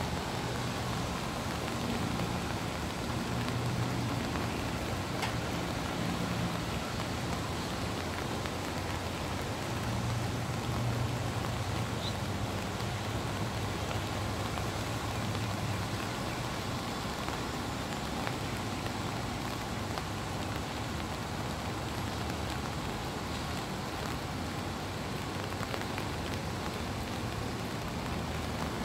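Steady rain falling, with a low hum underneath that swells and fades.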